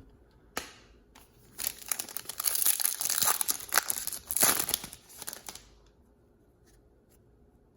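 A trading card pack's wrapper being torn open and crinkled by hand, a dense crackling run from about a second and a half in to past five seconds, then a few faint ticks.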